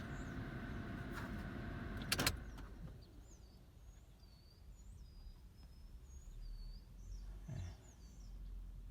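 A car's steady hum, heard from inside the cabin, ends after a sharp clunk about two seconds in; after that, faint short high bird chirps come through several times.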